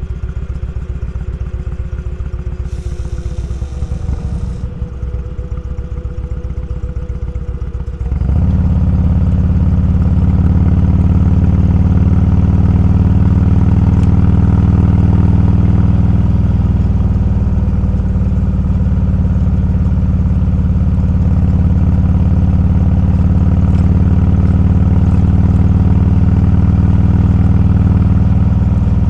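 Motorcycle engine running at low revs with a pulsing beat. About eight seconds in it becomes markedly louder and stays at a steady, fuller drone while riding.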